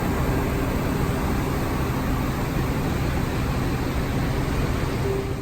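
Electric commuter train running: a steady rumble of wheels and motors with a faint low hum.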